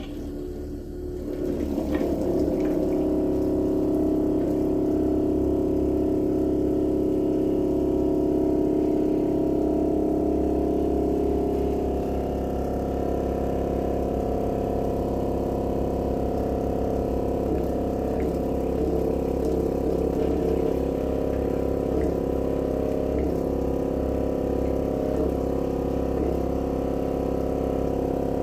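Small electric transfer pump starting up about two seconds in, then running with a steady hum as it pumps waste motor oil through a filter.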